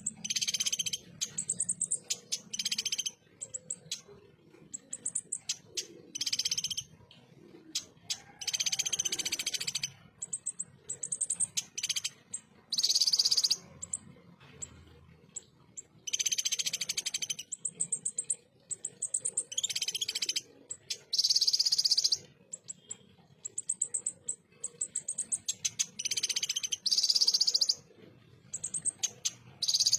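Kolibri ninja sunbird singing rough, rapid 'shot' phrases. Dense, harsh runs of high notes, each about a second long, come every couple of seconds, with short thin high chips in between.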